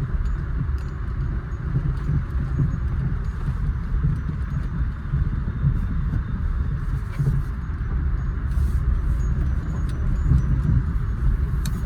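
Inside the cabin of a Maruti Suzuki A-Star driving slowly over a rough, broken road. There is a steady low rumble from the road and engine, with scattered small clicks and rattles from the car's body and fittings. These are the interior rattles the owner is trying to trace.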